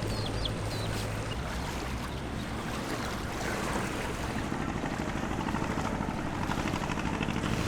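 A small boat's motor running steadily, with water rushing past the hull.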